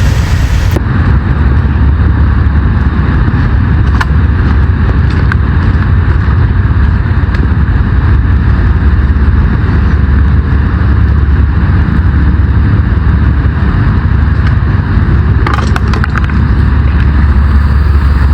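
Steady low rumble of a vehicle on the move, heard from inside the cabin: engine and road noise, with a few faint clicks.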